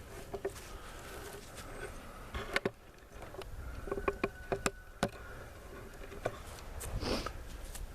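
Camera handling noise as the camera is picked up, moved and set down: scattered sharp clicks and knocks, most of them a little past the middle, over a low rumble, with a faint steady buzz partway through.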